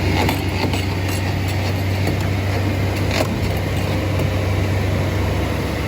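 Heavy truck engine running steadily with a deep low hum, and a brief sharp click about three seconds in.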